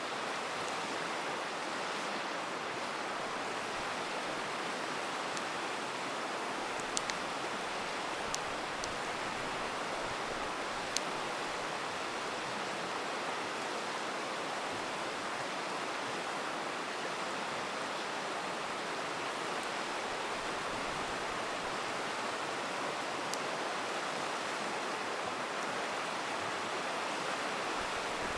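River water rushing steadily, with a handful of sharp crackles and pops from a wood campfire, several of them close together about a quarter of the way in.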